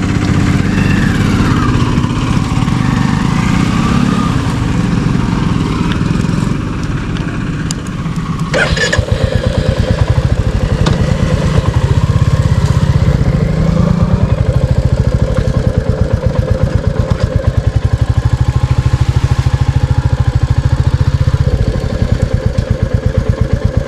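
Royal Enfield Classic 350's single-cylinder engine running under way, with an even thumping beat. A short sharp clatter comes about eight and a half seconds in, after which the beat settles steadier.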